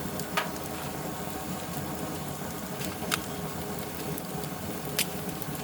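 Grilled cheese frying in a pan on a wood stove: a steady sizzle with a few sharp pops.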